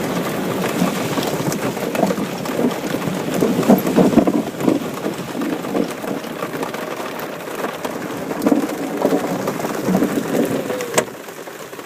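A thunderstorm: rain falling with uneven swells of rumbling thunder. A sharp click comes near the end, and it is quieter after it.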